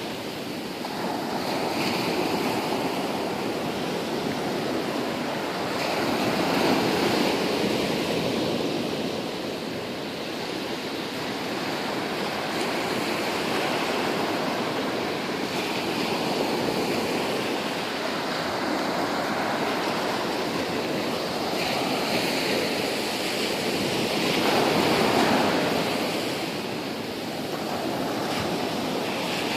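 Ocean surf breaking on the shore: a continuous rush of waves that swells and eases slowly every several seconds.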